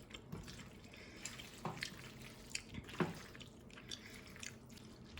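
A serving spoon dishes the saucy pasta bake into meal-prep containers, making faint wet plops and scrapes. A few light knocks and clinks fall about a second and a half apart.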